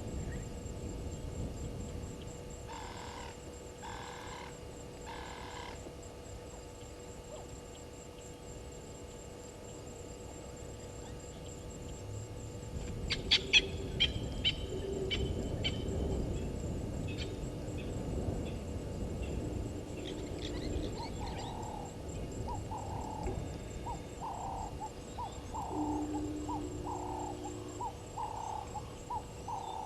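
Wild birds calling at a waterhole: three evenly spaced notes a few seconds in, a burst of sharp clicks and chirps around the middle, then a run of short repeated notes, about one or two a second, through the last third, all over a low outdoor rumble.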